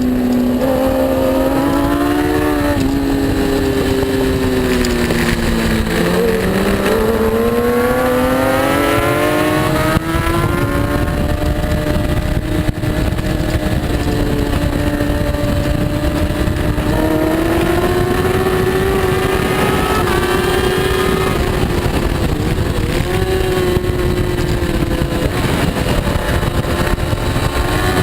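Superbike engine at racing speed: its pitch falls as the bike slows, then climbs hard under acceleration through the middle and holds high, with a steady rush of wind noise underneath.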